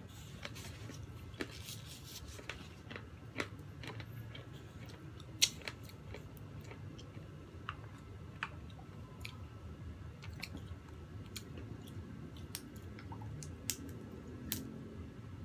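Chewing of soft cream cake close to the microphone, with scattered sharp clicks throughout; the loudest click comes about five seconds in.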